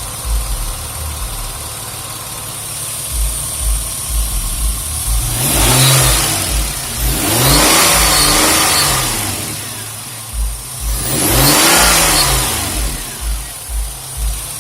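2001 Nissan Maxima's 3.0-litre V6, fitted with an AEM intake, idling with a low, even pulse and then revved twice, its pitch climbing and falling back each time before it settles to idle.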